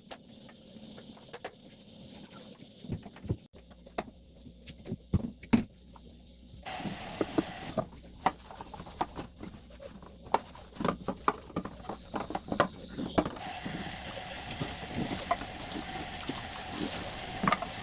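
Clattering knocks and clicks of household items being handled, with a tap running water briefly about seven seconds in and then steadily from about thirteen seconds on.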